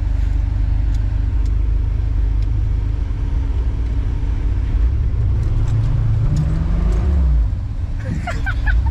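1990s truck engine running steadily, its note rising about five seconds in and easing off again near the end.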